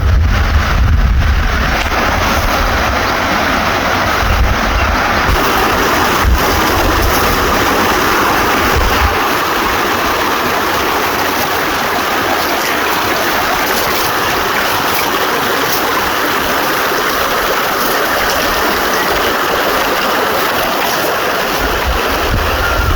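Water in a stream running steadily, with wind buffeting the microphone for the first few seconds and again near the end.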